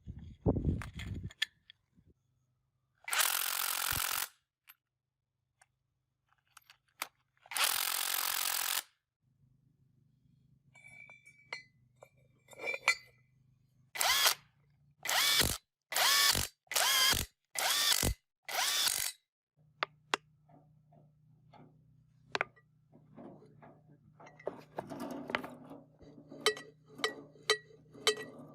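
Workshop tool sounds on a compactor being restored: two noisy bursts of about a second each, then a run of six short power-tool bursts in quick succession, followed by light metallic clicks and clinks near the end.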